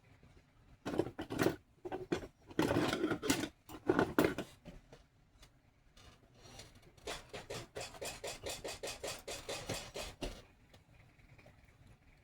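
Scraping strokes on a small workpiece: a few louder, longer scrapes in the first four or five seconds, then a steady run of quick strokes at about four or five a second for some three seconds.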